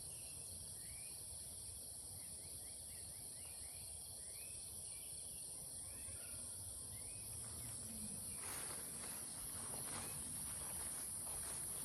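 Steady, high-pitched insect chorus from crickets or cicadas, with short rising chirps repeating about once a second for the first several seconds. Faint rustling comes in near the end.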